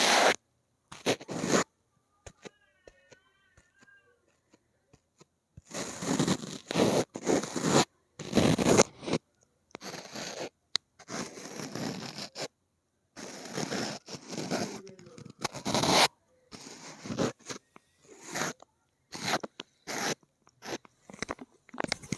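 Fingernails scratching and scraping on an object in crunchy bursts of one to three seconds, with a pause of about three seconds near the start and shorter scratch strokes toward the end.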